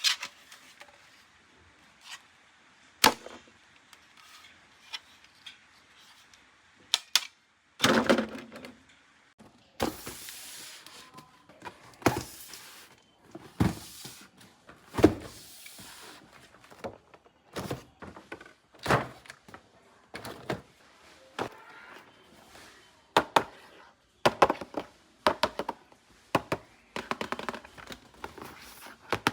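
Plastic toy parts and packaging being handled: irregular clicks, clacks and knocks, a few of them sharp and loud, with short bursts of rustling.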